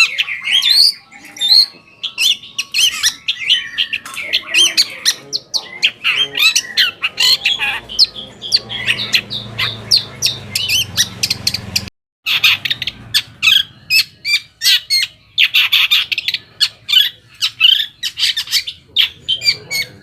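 Long-tailed shrike (cendet) singing a rapid, dense string of harsh chattering and squawking notes. The song breaks off for a moment about twelve seconds in, then carries on.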